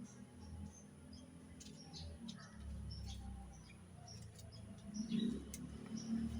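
Faint, scattered high chirping of small birds over a low rumble, with a few sharp clicks about five seconds in.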